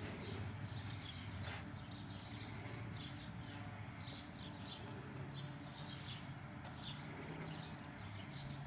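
Small birds chirping again and again in short, high notes, over a low steady hum.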